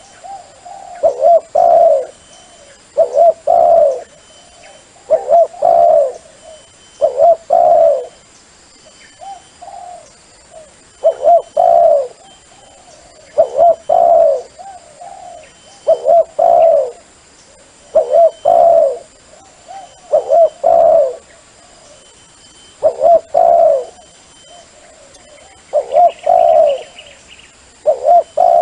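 Dove cooing in loud phrases of a few notes each, repeating about every two seconds: a dove call played to lure wild doves.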